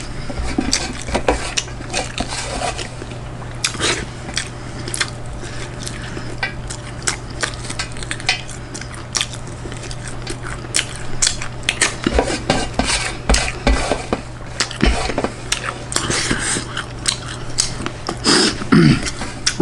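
Cutlery clinking and scraping against a plate during a meal, in many short, irregular clicks.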